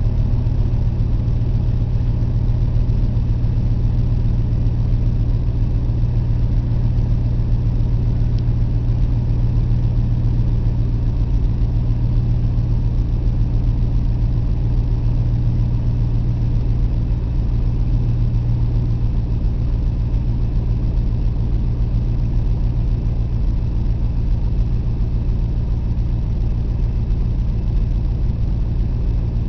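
Jeep Grand Cherokee 4.7-litre V8 idling steadily just after a cold start at about −30 °F. It runs evenly with no change in pitch.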